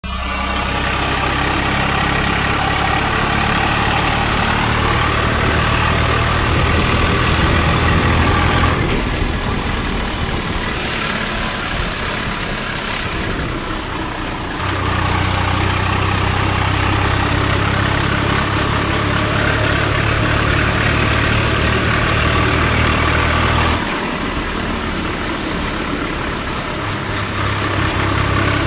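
Swaraj 744 FE tractor's three-cylinder diesel engine running hard while pulling a loaded trolley. The engine eases off about nine seconds in and comes back up to full speed a few seconds later, then eases off again near the end and picks up once more.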